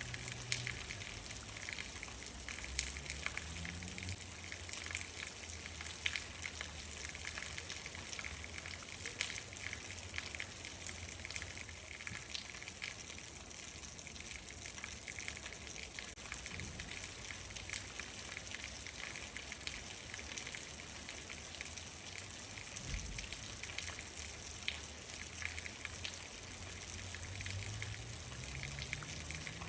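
Steady rain falling, many separate drops ticking against a surface over a constant hiss, with a low rumble underneath.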